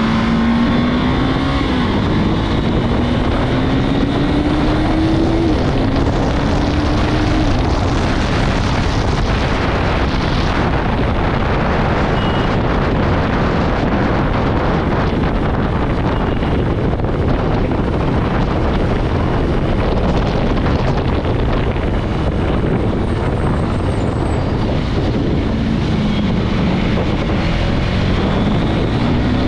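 KTM Duke 390 single-cylinder motorcycle being ridden at speed, with heavy wind rush on the microphone. The engine note rises in steps in the first seven seconds and again near the end as the bike accelerates through the gears.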